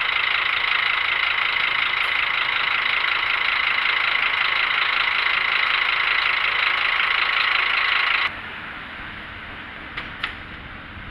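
Steady traffic and road noise as heard from a moving bicycle: a loud, even hiss that drops suddenly about eight seconds in to quieter traffic sound, with two short clicks near the end.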